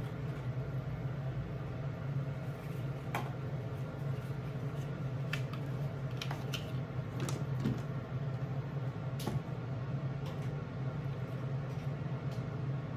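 Steady low machine hum with scattered light clicks and knocks of things being handled in a kitchen.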